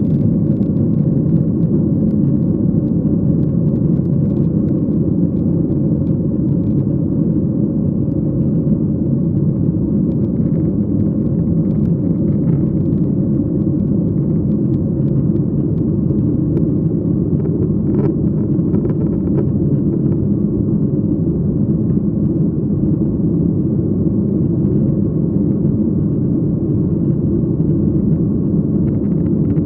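Airliner cabin noise: the steady low rumble of the jet engines and rushing air, heard from a window seat, with an occasional faint tick.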